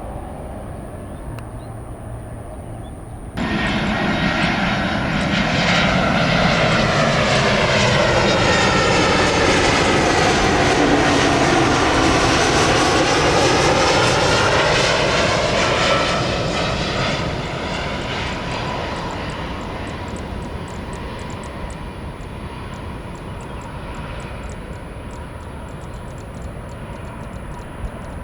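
Jet airliner on final approach passing low overhead: engine noise jumps up about three seconds in, stays loud with sweeping rising-then-falling tones as it goes over, then fades slowly.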